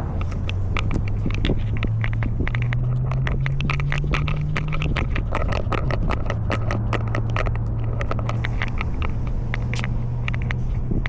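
Rapid irregular clicks and scrapes from a cat's collar camera as the cat moves, over a steady low hum.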